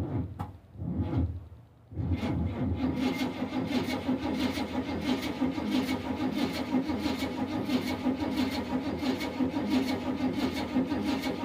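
1978 GMC Vandura motorhome engine being cranked by its starter without catching: a short crank, then steady, fast-pulsing cranking from about two seconds in. The carburetor has been drained, so the fuel pump is still drawing fuel through the lines while it cranks.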